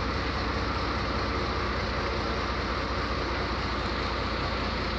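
Canal boat's engine running steadily under way inside a long canal tunnel: an even, unchanging low hum with a rushing noise over it.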